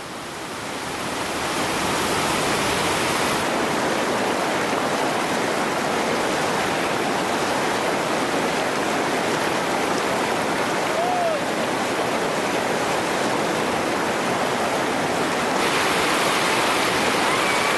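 Rushing whitewater of a river rapid, a steady noise of water that builds over the first two seconds and then holds. A short call from a voice cuts through about eleven seconds in.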